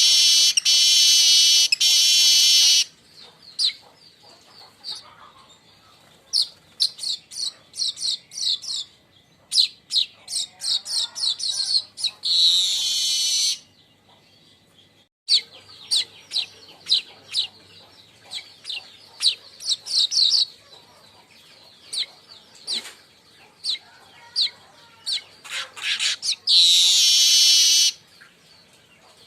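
Weaver birds (manyar) calling: series of short, sharp, high chip notes broken by three long, dense, buzzing rattles, the 'crecetan' chatter, one at the start, one about twelve seconds in and one near the end.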